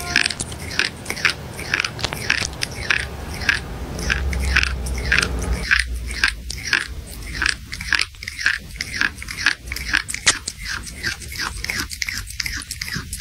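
Crunching of potato chips being chewed, a rapid, steady run of sharp crunches about two to three a second.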